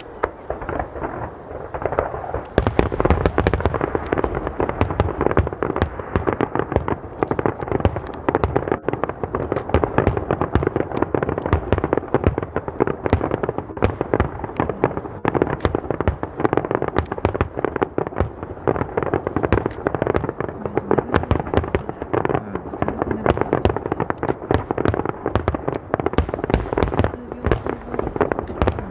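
Fireworks finale barrage: aerial shells bursting in a dense, continuous run of bangs, several a second, thickening and growing louder about two seconds in.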